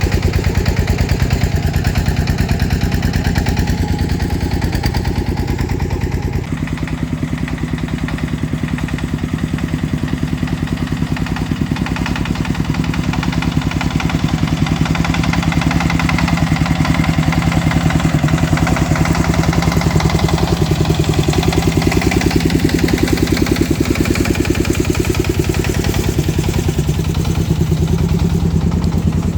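Farm truck engine running steadily with a fast, even pulsing beat; its low note shifts about six and a half seconds in.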